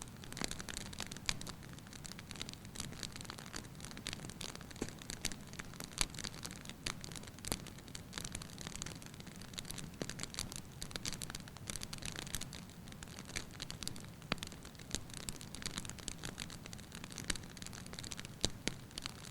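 Wood fire burning in a fireplace: a steady low rush of flames with irregular sharp crackles and pops from the logs.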